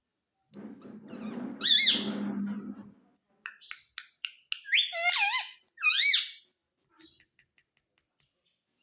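A pet parrot calling: a low, buzzy muttering for the first few seconds, then shrill, wavering squawks about two seconds in and again twice around five to six seconds in, with soft clicks between.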